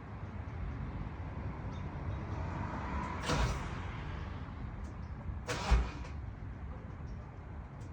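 A car door opened about three seconds in and shut with a slam about two seconds later, before the engine is started.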